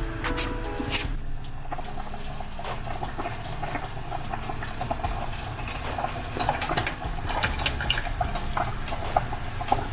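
Pot of chicken boiling: steady bubbling with many small irregular pops.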